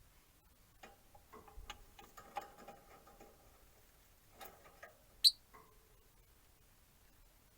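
Rosy-faced lovebirds: scattered small clicks and soft, short sounds for a few seconds, then a single sharp, high chirp about five seconds in.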